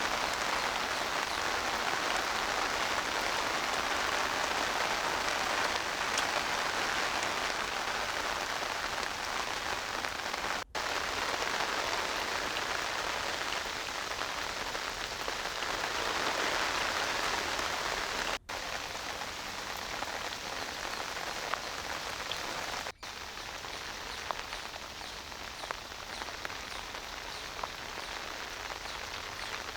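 Steady rain falling, with scattered single drops ticking through it. The sound cuts out for an instant three times.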